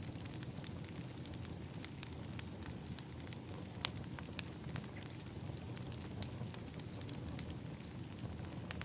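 Wood fire in an outdoor fire pit crackling: irregular sharp pops and snaps over a steady low rush, with one louder pop about four seconds in.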